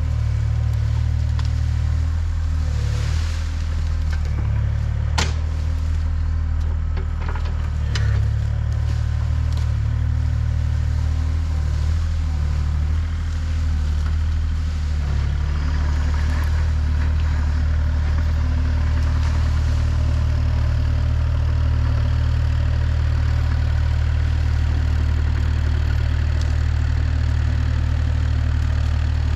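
Heavy machine's engine running steadily, with sharp cracks over the first half or so that settle into an even engine sound.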